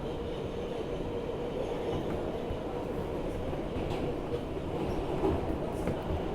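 R160B subway car running on the line, heard from inside the car: a steady rumble of wheels on rail with a faint steady hum and occasional light clicks.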